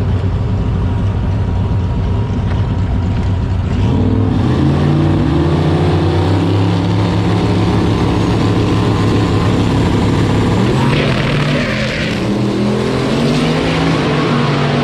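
Turbocharged four-cylinder engine of a Dodge Neon SRT-4 drag car on a drag pass. The engine runs steadily at first, then from about four seconds in its note climbs and levels off in steps through the gears. A rushing hiss comes about eleven seconds in, after which the note drops and climbs again.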